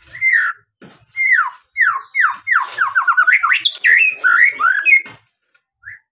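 White-rumped shama (murai batu) singing: a string of clear whistled notes that slide downward. It starts with separate notes, speeds into a fast run in the middle, then moves through varied rising and falling phrases, and ends with a short note after a brief pause.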